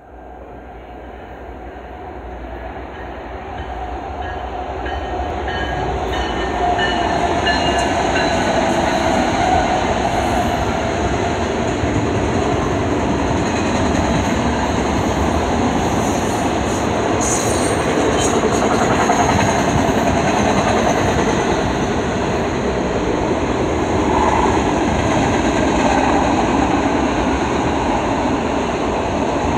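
CN double-stack intermodal train passing at speed: its three GE diesel locomotives (ES44AC, C44-9W and ET44AC) grow steadily louder over the first several seconds as they approach and go by. After that comes the steady noise of the container well cars' wheels running over the rails.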